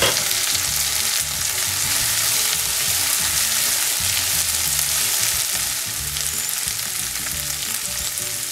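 Diced potato, onion and green peas sizzling in oil in a non-stick frying pan while they are stirred and scraped with a spatula, with a sharp knock right at the start.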